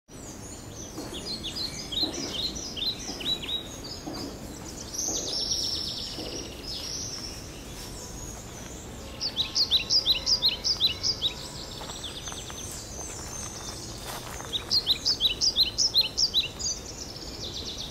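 Birds singing: repeated runs of quick, high chirps, about five a second, and a brief buzzy trill, over a steady background hiss.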